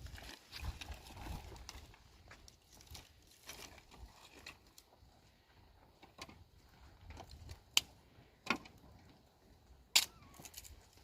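Scattered small clicks and rustles of objects being handled, with three sharp clacks in the second half, the last the loudest.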